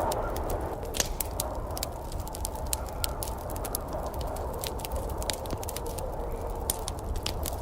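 Wood fire in a fireplace crackling, with frequent irregular sharp pops over a steady low rushing background.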